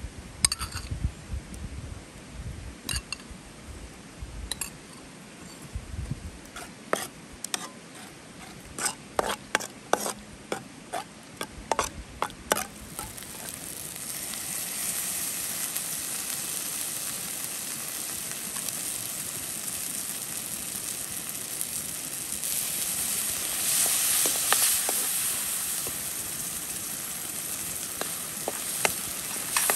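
A spoon taps and scrapes against a steel pan many times as tomato paste is spooned into hot oil. About halfway through a steady sizzling sets in as the paste fries, loudest a little after two thirds of the way, with a slotted spoon stirring and a few more taps near the end.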